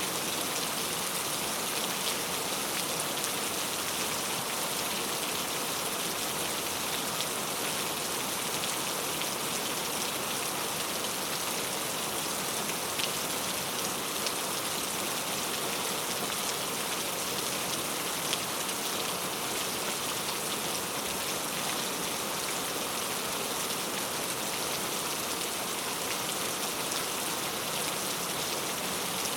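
Steady rain falling and pattering on surfaces, an even hiss with many fine drop ticks.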